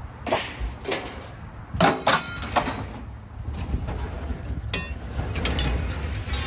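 Scrap steel clanking and clattering in a series of metallic crashes, some leaving a short ringing tone, over a steady low engine rumble.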